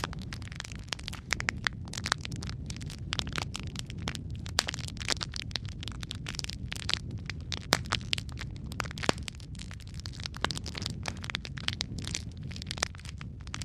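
Wood fire crackling and popping in a fireplace: dense, irregular sharp pops over a steady low rumble of the flames.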